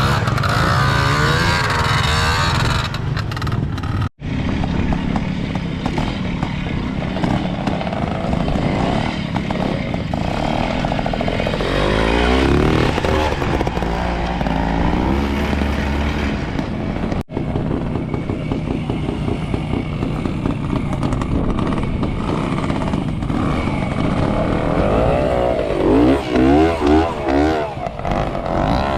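Classic trials motorcycle engines running at low revs off-road, the throttle opening and closing so the pitch rises and falls as riders work through an observed section. The sound breaks off abruptly twice, about four seconds in and again past halfway.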